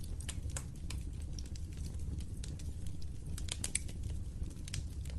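Wood fire crackling in a fireplace: irregular sharp pops and snaps, thickest about three and a half seconds in, over a steady low rumble of the flames.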